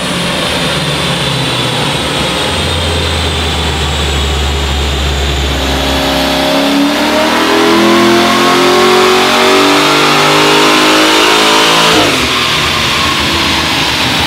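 Holden VH Commodore's naturally aspirated 6.2-litre LS3 V8 on a chassis dyno, making a power run: the engine note climbs steadily for several seconds, then drops off suddenly about twelve seconds in as the throttle is lifted and the revs fall.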